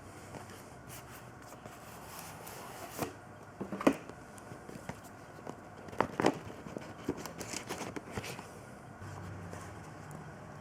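A box and packaging being opened and parts handled: scattered crinkles, scrapes and light clicks and knocks at an irregular pace, a few sharper knocks about four and six seconds in.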